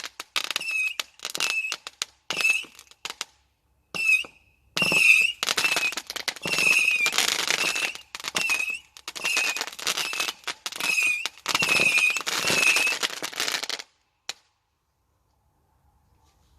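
Fireworks going off in a rapid series of short crackling bursts, each with a high wavering whistle. The bursts stop abruptly about fourteen seconds in.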